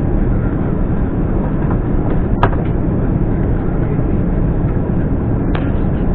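Steady low rumble of an Airbus A350's cabin noise, broken by two sharp clicks, one about two and a half seconds in and another near the end.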